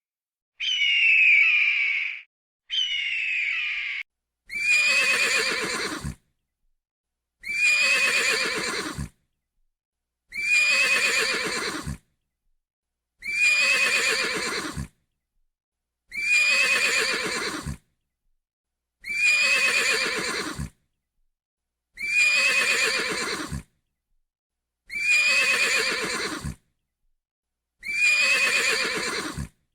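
A horse whinnying, the same neigh repeated about nine times at an even spacing of roughly three seconds, each call lasting about a second and a half. Two shorter calls come just before the first neigh.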